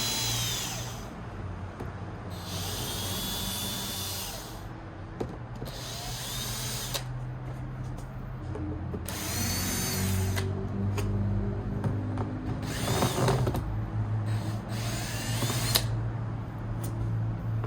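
Electric drill with a Torx T9 bit backing out small screws. The motor whines in short runs of a second or two, about six times, with pauses between.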